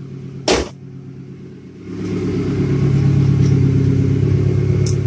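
Straight-piped 1994 Toyota Camry's 5S-FE four-cylinder engine running with a steady drone through its open exhaust. There is a sharp knock about half a second in, and about two seconds in the engine gets much louder and stays loud and even.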